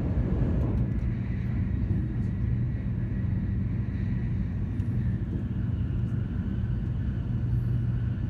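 Steady low rumble of a vehicle in motion, with a faint thin whine above it.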